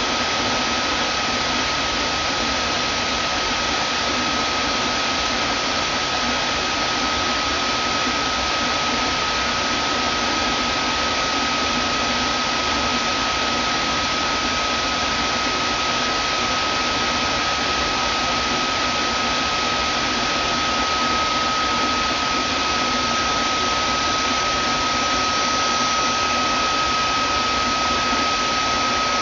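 Vacuum cleaner running steadily: an even rushing hiss with a constant high whine over it.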